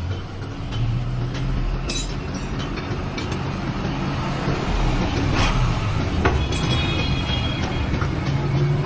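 A motor or engine running steadily with a low hum, with a couple of sharp knocks about halfway through.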